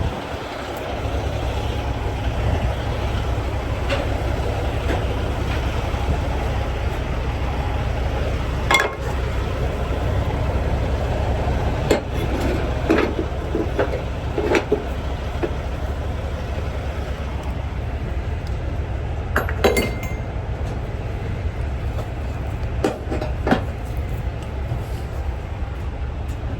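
Steady low rumble of an idling diesel truck, with several sharp metallic clinks and clanks scattered through it as cargo straps and their hooks are handled on a flatbed.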